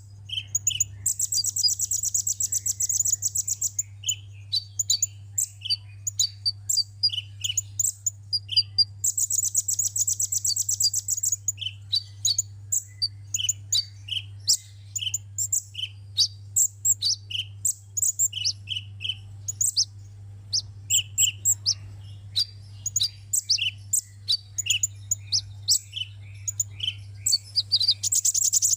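Sunbird song: a steady stream of short, high chirps, broken twice by long, fast, high trills and again near the end, over a steady low hum.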